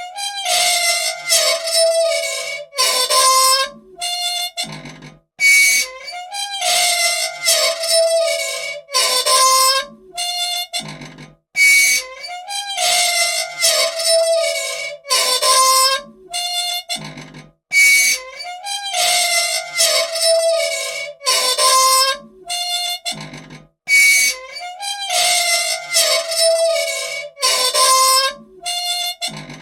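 An old machine squeaking over and over: high, wavering squeals with short gaps between them, the same pattern coming round about every six seconds. These are the squeaks of parts that want oil.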